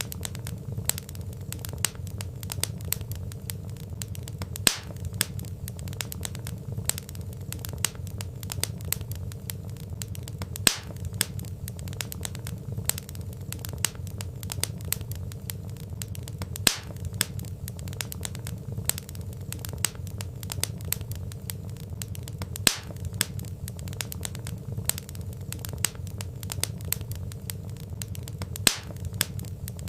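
Wood fire crackling: a dense run of small snaps and clicks, with a sharper, louder pop about every six seconds, over a low steady rumble.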